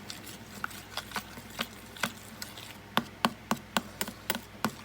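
A spoon clicking and tapping against a bowl as ranch dressing and hot sauce are stirred together. The clicks are sharp and irregular, about two or three a second.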